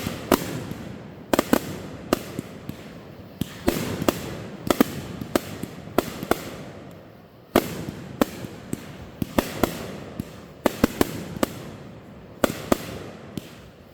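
Fireworks going off in a fast, uneven run of sharp bangs, sometimes several within a second, with a rumbling echo hanging between them.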